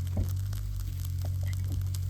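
A steady low hum with a soft knock about a fifth of a second in and a few faint scattered clicks; the frying sizzle has died down.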